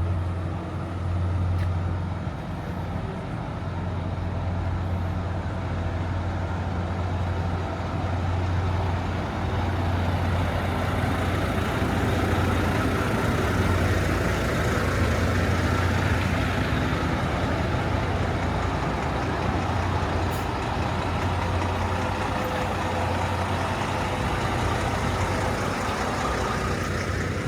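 Truck diesel engine idling steadily, a constant low hum over outdoor background noise.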